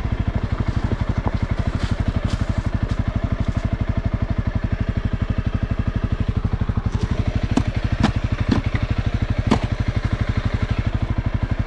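Honda CRF300L's single-cylinder four-stroke engine running at low, steady revs with an even putting beat. A few sharp knocks sound about seven to ten seconds in.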